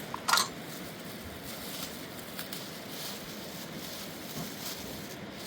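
A single sharp knock or clack, with a few faint ticks afterwards over a steady rushing background.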